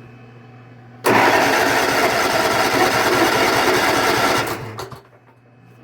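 Cub Cadet LTX1045 lawn tractor's engine being cranked by its electric starter for about three and a half seconds without firing, then the cranking stops. It will not catch because the newly fitted fuel shutoff valve is closed and no fuel reaches the engine.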